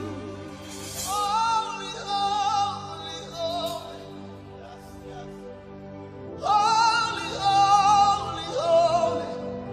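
Worship music: wordless singing in long held notes with vibrato, in two phrases with a softer gap between them, over a steady instrumental backing.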